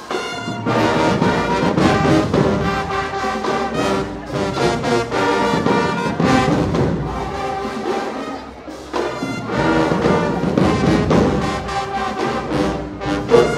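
A high school marching band's brass section playing loudly, with trombones and trumpets over drums.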